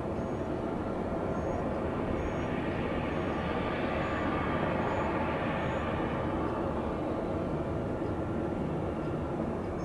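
Jet airliner engines passing, the sound swelling to its loudest about four to five seconds in and then fading. A faint high chirp repeats throughout.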